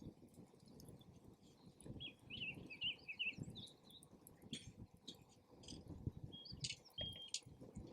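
Gusty wind rumbling on the microphone, with a small bird chirping a quick run of notes about two seconds in and a few short sharp clicks and a held high note later.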